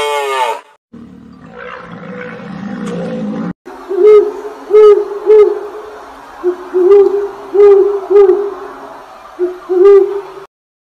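Owl hooting: a run of about eight short hoots, some in pairs, starting about four seconds in. Before the hoots there is a low rumbling noise.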